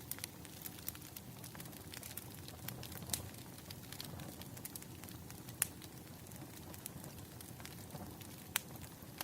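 Firewood burning and crackling: a steady low rumble with frequent small pops and snaps, and a few sharper snaps standing out.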